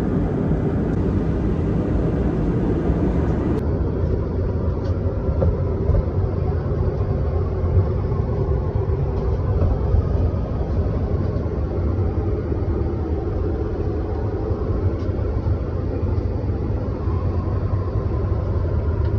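Airbus A319 cabin noise in flight: the steady, low drone of engines and airflow heard from a passenger seat.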